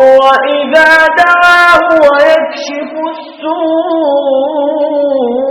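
A man's voice reciting the Quran in melodic tajwid style, drawing out long sung notes with ornamental turns and slow glides in pitch.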